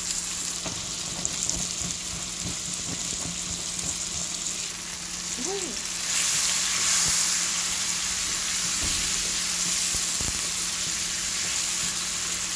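Diced tomatoes sizzling in hot oil with fried onions and bell pepper in a pan. The frying hiss grows louder about six seconds in as the tomatoes are stirred with a spatula.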